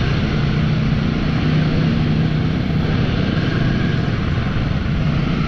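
Royal Enfield motorcycle engine running steadily while riding, with a constant rush of wind noise over it.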